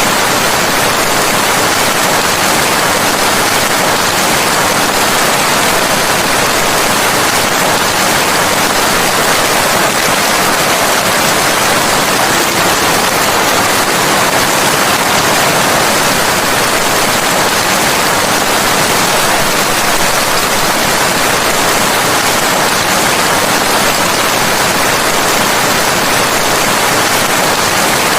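Steady heavy rain: a loud, dense, even hiss with no separate drops standing out.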